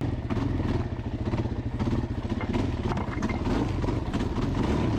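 Dirt bike engine running steadily at low revs, with a slightly uneven pulsing note.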